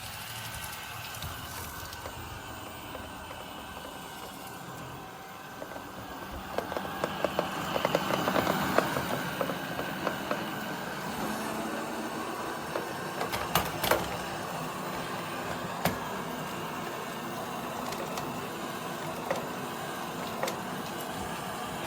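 eufy RoboVac 11S robot vacuum running with a steady motor and brush hum. A run of rattling clicks comes about seven to nine seconds in, and a few more around fourteen seconds.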